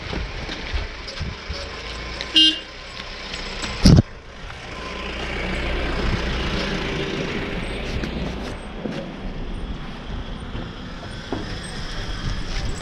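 Road vehicle running along, with rumble and wind noise on the microphone. A vehicle horn gives a short toot about two and a half seconds in, and a sharp knock follows about a second later.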